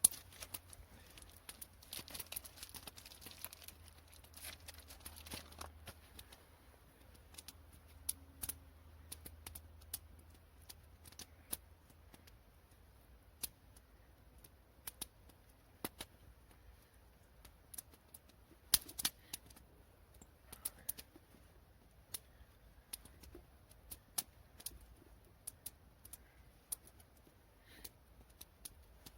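Irregular sharp clicks and crackles, with a stretch of rustling in the first few seconds.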